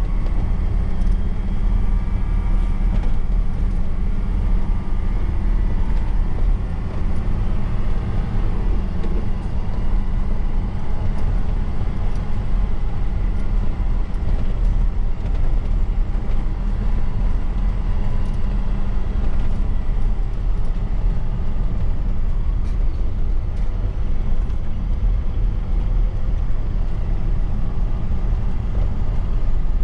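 Truck's diesel engine running under way, with a steady low rumble and road noise.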